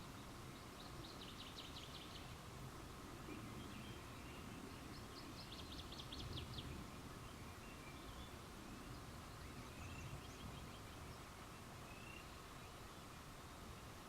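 Outdoor night ambience: two short, high, rapid trills, about one and six seconds in, and a few faint chirps, over a steady low background noise.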